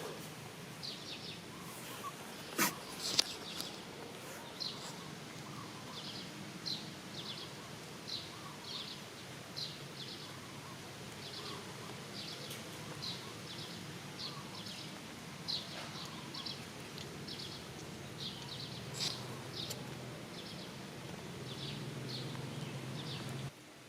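Outdoor ambience with short, high chirps from a small animal, repeating about once or twice a second over a steady low background hum. A few sharp clicks come a few seconds in and again near the end. The background cuts off abruptly just before the end.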